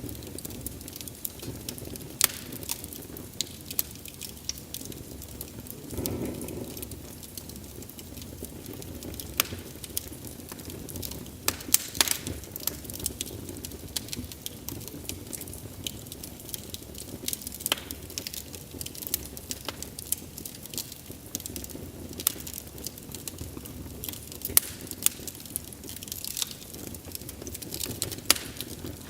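Wood fire crackling: irregular sharp pops and snaps over a steady low hiss of burning, with a brief soft rush about six seconds in.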